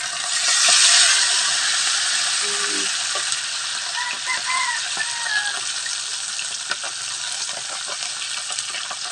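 Oarfish pieces frying in hot oil in a pan: a steady sizzle that swells to its loudest about a second in as a spatula turns the pieces, with small scattered pops of oil.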